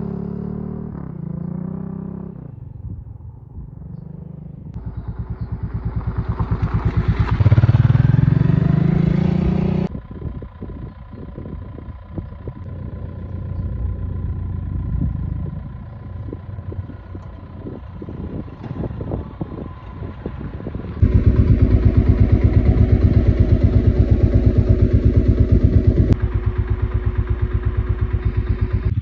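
Honda Africa Twin XRV750's V-twin engine running under riding. It revs up with rising pitch between about five and ten seconds in, then runs more steadily. The sound jumps abruptly in level about ten, twenty-one and twenty-six seconds in.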